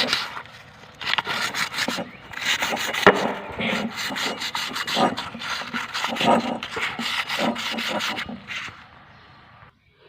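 Sandpaper rubbed by hand in quick back-and-forth strokes over a rear drum-brake part, to smooth a scored friction surface. The scraping stops about eight and a half seconds in.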